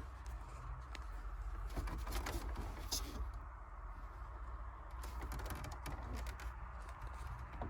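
Scattered light clicks and taps from hands and a tool working on plastic dashboard trim and its fasteners, over a low steady hum.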